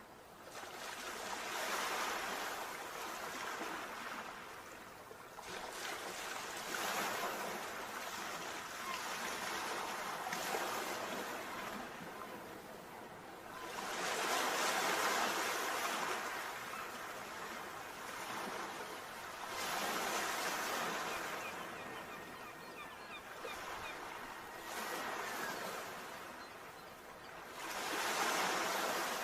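Sea waves breaking on a shore, the surf swelling and falling back every few seconds.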